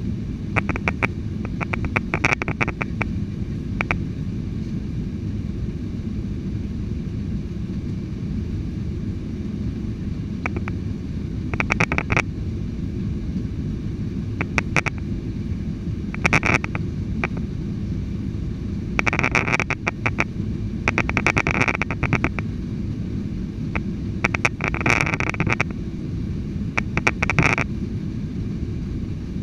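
Steady low rumble of a Ryanair Boeing 737-800 (jet engines and airflow) heard from inside the cabin, with short higher-pitched bursts every few seconds.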